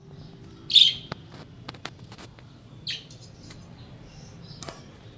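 Budgerigar chirping: one loud, high squawk-like chirp a little under a second in and a softer one about three seconds in, with short ticking clicks between them.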